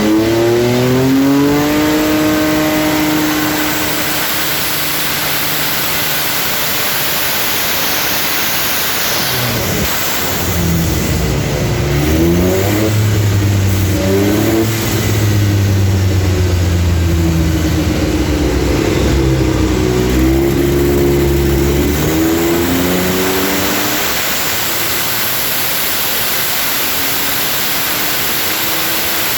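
Porsche 962 flat-six race engine running on an engine dyno during testing and mapping after a complete rebuild. The revs fall away in the first few seconds, run up and hold at several speeds through the middle for about ten seconds, then settle to a steady lower speed.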